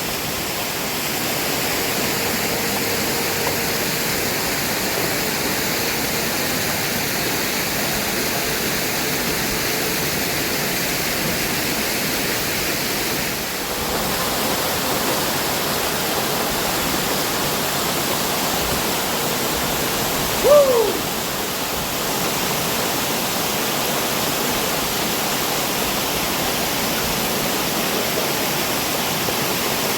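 Steady rush of a waterfall and creek water. About two-thirds of the way through, one short whistled note falls in pitch.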